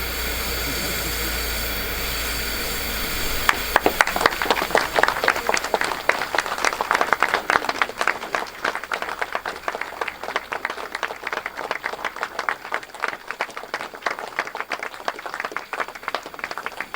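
A steady low hum and hiss, then a crowd breaks into applause about three and a half seconds in, clapping that slowly thins out.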